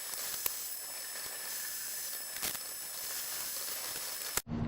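Steady hiss with a couple of faint clicks, cutting off suddenly near the end.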